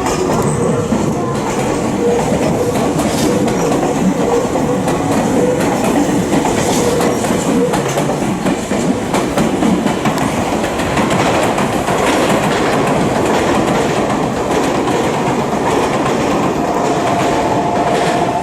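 Train running on rails, its wheels clattering in a steady stream of clicks over the rail joints, with a faint whine from the train.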